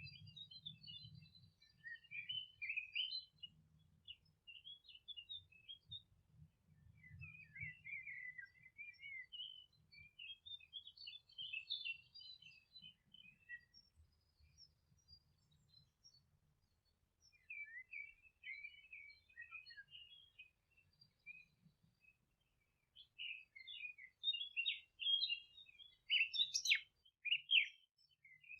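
Songbirds chirping and twittering in a meadow, short bright phrases coming in bouts with brief pauses between them, growing denser and louder near the end.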